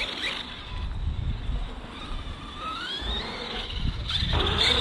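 ARRMA Outcast 4S RC stunt truck's brushless electric motor whining as the truck drives, its pitch rising as it speeds up about halfway through, over a low rumble of tyres and wind.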